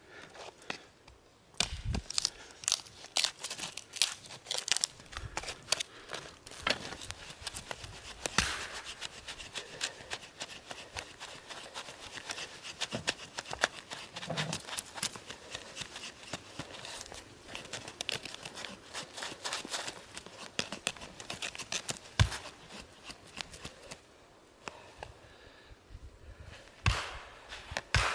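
Crinkling and tearing of something being handled, a dense run of small crackles that eases off about 24 seconds in, with one more short burst near the end.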